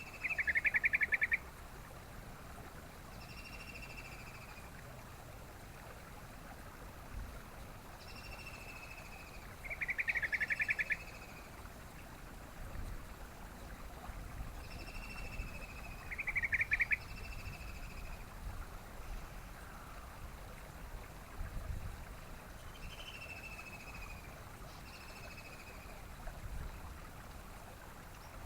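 Yellow-vented bulbul (trucukan) singing: short clear whistled notes and fast bubbly trills, in phrases repeated every few seconds. The loudest trills come at the very start, about ten seconds in and about sixteen seconds in, over a steady background hiss and occasional low rumbles.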